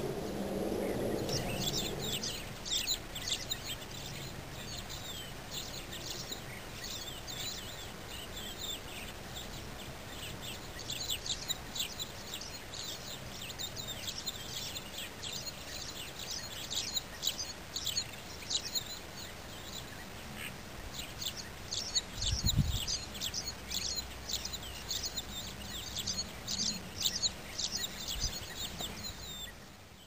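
Small wetland birds chirping in a dense, rapid chatter of short high calls, coming in bouts with brief pauses. A dull low thump sounds about three-quarters of the way through.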